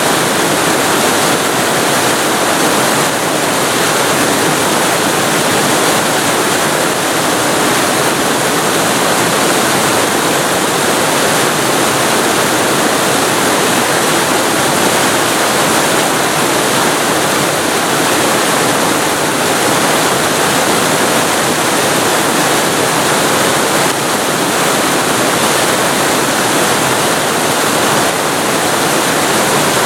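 Waterfall recorded very close to the falling water: a loud, steady rush of water with no let-up.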